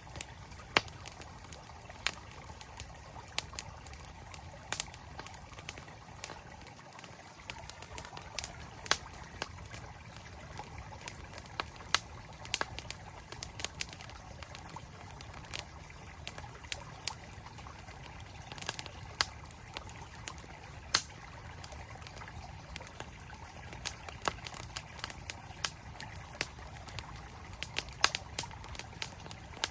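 Campfire crackling with sharp, irregular pops over the steady rush of a flowing mountain stream.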